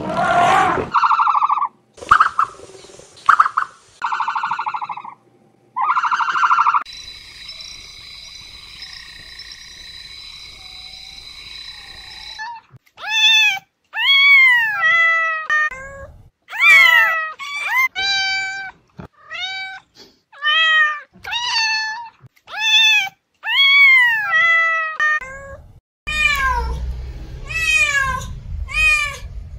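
Cat meowing over and over, short calls about once a second, each falling in pitch. Before the meows come a few short pulsed calls and a steady high-pitched tone lasting several seconds.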